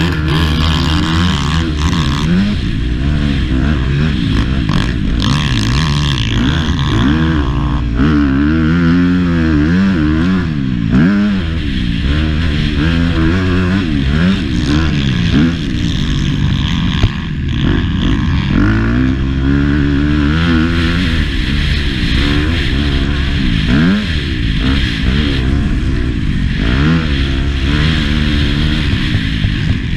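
Motocross bike engine revving hard and backing off over and over, its pitch climbing and dropping as the rider accelerates, shifts and shuts the throttle.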